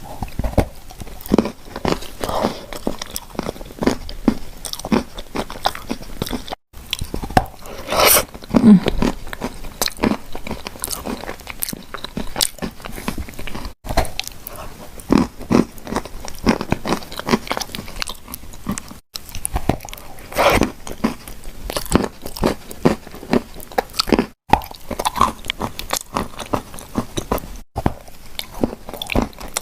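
Close-miked bites and crunchy chewing of clay shortbread cookies: dense crackling crunches with a few louder bites, broken by several very brief dropouts where the recording is cut.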